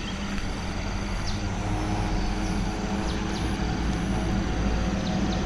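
Heavy rain in a night-time thunderstorm, a dense steady hiss with a low steady hum underneath.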